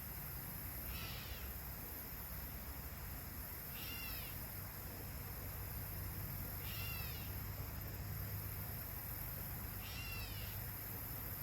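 A bird repeating a short, downward-sliding call four times, about every three seconds, over a steady low rush.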